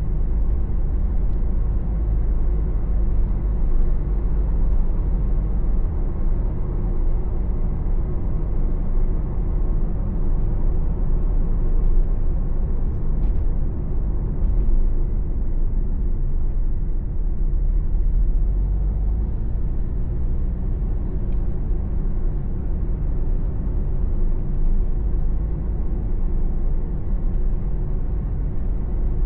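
Car interior noise while driving: a steady low engine and road rumble with tyre noise.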